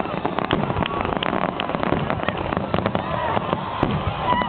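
Aerial fireworks going off in a dense, rapid run of bangs and crackles.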